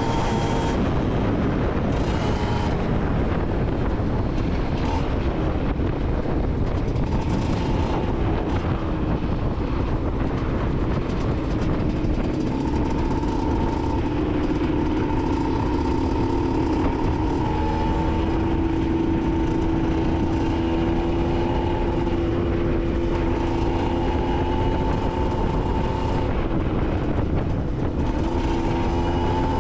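Aprilia SX 125's single-cylinder two-stroke engine with an Arrow exhaust running under way, its note holding steady for stretches and stepping up and down in pitch a few times as the revs change, over a steady rushing noise.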